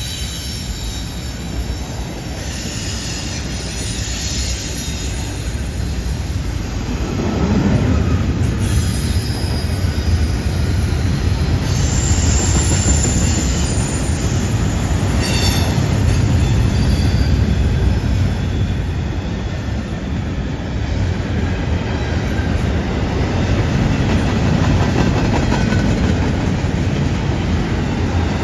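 Freight train cars rolling past on a curve: a steady rumble of wheels on rail, with high-pitched wheel squeal coming and going in short spells.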